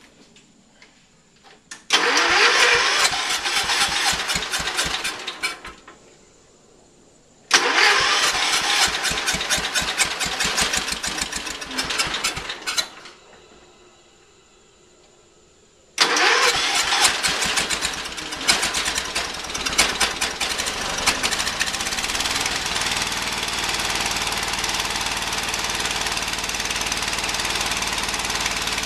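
Kohler K301 single-cylinder engine on a Ford LGT120 garden tractor being cranked by the starter: two cranks of about four and five seconds fail to catch, and on the third try about 16 seconds in it fires and keeps running, rough at first and then steady. A hard starter, cranked here with a jump pack helping a weak battery.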